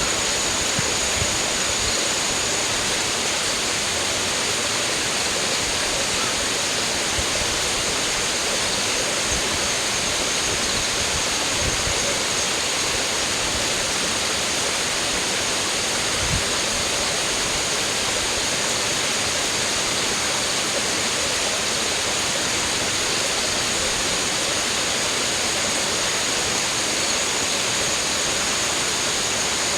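Steady rush of flowing water, an even hiss with no breaks, with a thin high steady tone above it.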